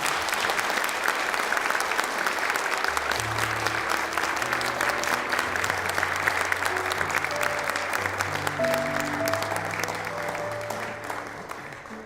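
Audience applauding steadily, with instrumental music coming in under the clapping about three seconds in; the applause tapers off near the end.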